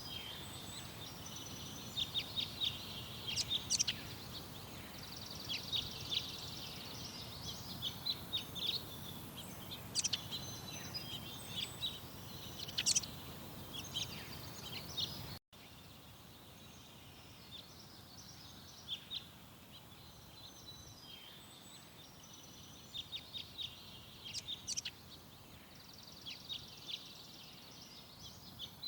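Garden birds singing and chirping in many short, high calls over a steady background hiss. About 15 seconds in the sound drops out for an instant and comes back with a quieter background, as at a cut between two recordings.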